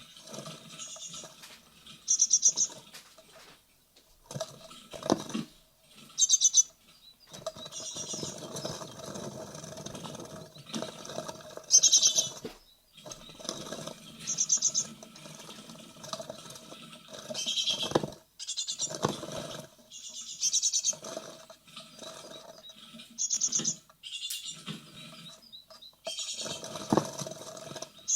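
Great tit nestlings in a nest box, repeatedly giving bursts of high-pitched calls, with scratching and scrabbling against the wood of the box between and under the calls.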